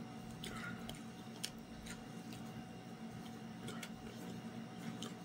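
Faint chewing and mouth sounds of people eating a sandwich: scattered soft clicks and smacks, one sharper click about a second and a half in, over a steady low room hum.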